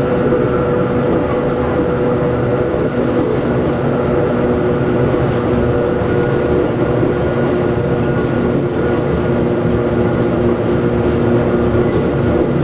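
Running sound heard aboard Hakone Tozan Railway Moha 1 No. 106, an electric car with nose-suspended SE121-A traction motors on Nippon Sharyo NA7 bogies. The motors and gears hum at a steady pitch over the rolling noise, as the car runs at a constant speed.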